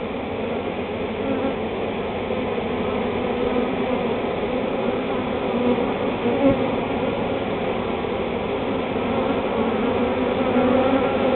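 Honey bee swarm buzzing: the dense, steady hum of many bees, growing slowly louder.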